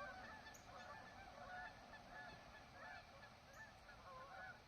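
Faint chorus of many short bird calls overlapping, from a distant flock.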